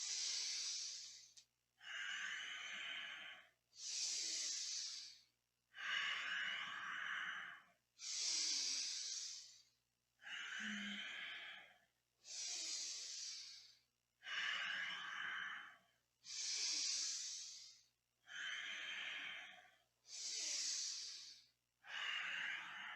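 Deep, audible breaths close to the microphone, inhales and exhales alternating evenly, each about one and a half seconds long, about six full breaths in all. The breathing is paced with a repeated yoga stretch: inhale to the centre, exhale while folding down towards the leg.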